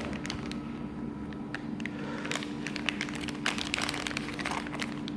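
Packaging being handled: scattered light clicks and crinkles as the box contents are moved.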